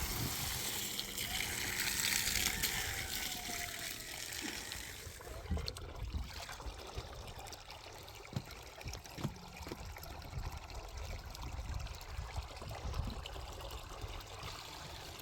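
Water running and splashing, strongest in the first few seconds and then quieter, with scattered light knocks.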